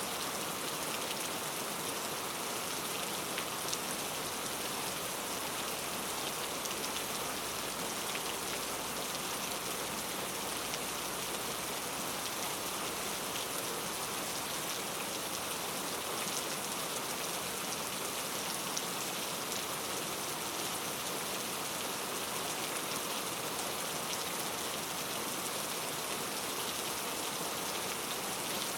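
Steady rainforest rain falling on foliage, a constant hiss with many small drops pattering through it.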